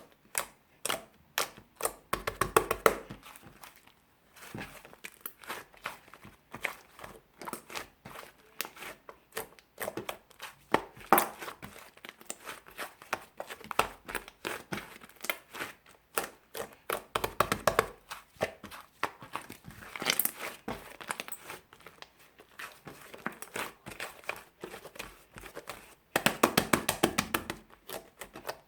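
Soft, fluffy clay slime being squeezed and poked by hand, making a quick series of sticky clicks and small air-pocket pops, with denser crackling runs every several seconds.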